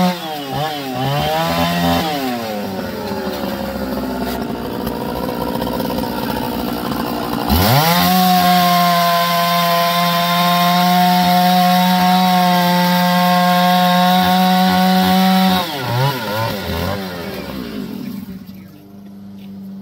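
Two-stroke chainsaw whose pitch drops and wavers at first, then runs lower and rougher for several seconds. About seven and a half seconds in it revs back up to a steady high pitch for about eight seconds, then drops, wavers and dies down near the end.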